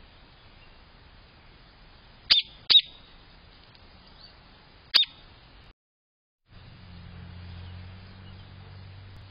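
Three short, sharp bird chirps, each sweeping downward: two close together about two seconds in and one about five seconds in. After a brief dropout, a low steady hum fills the last few seconds.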